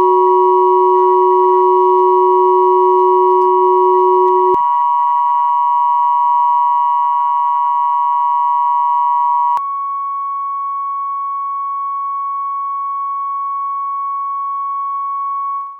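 Combined 369, 963 and 1111 Hz pure sine tones held steady together. The lowest tone cuts off about four and a half seconds in, the middle one about nine and a half seconds in, leaving the highest tone alone until it fades out at the end.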